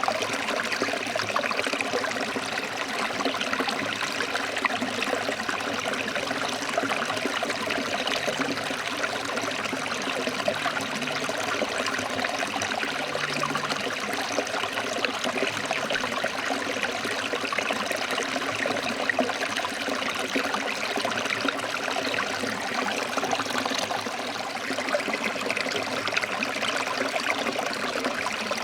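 Stream water flowing and splashing over rocks, a steady rushing and burbling.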